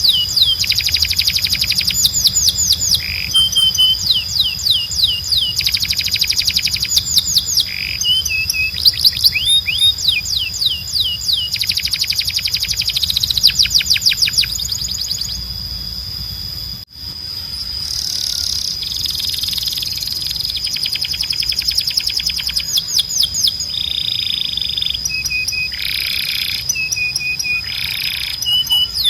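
Canary singing: bouts of fast trills made of rapidly repeated falling notes, broken by short level whistles, over a steady high tone and a low hum. The sound drops out for an instant about 17 seconds in, then the song carries on.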